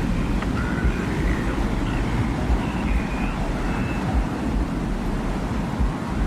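Desert wind ambience for a sci-fi soundscape: a steady low rumble of wind with faint, short whistling tones drifting above it.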